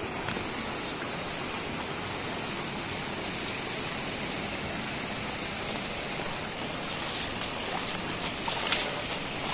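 Steady rushing water noise, with a few short sharp clicks or splashes in the last two seconds.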